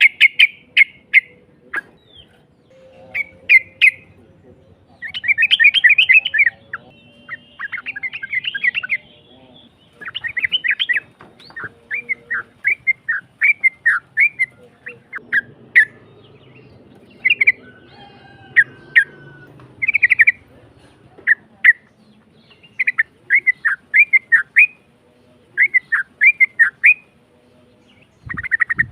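Yellow-vented bulbul (trucukan) singing: rough-voiced, short chattering phrases repeated again and again with brief pauses, some strung into longer runs.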